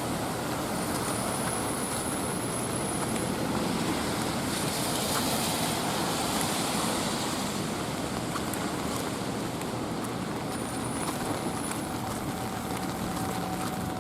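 Wet night street ambience: a steady hiss of light rain and traffic, with a vehicle's tyres on the wet road swelling and fading about five to seven seconds in.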